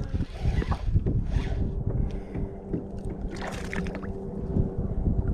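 Wind rumbling on the microphone in a kayak, with scattered light knocks and rustles of handling.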